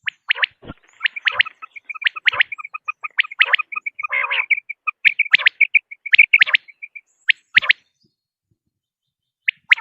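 Common quail calling: sharp whistled notes and a rapid run of short chirps, with a rasping call about four seconds in. The calls stop after about eight seconds and resume near the end.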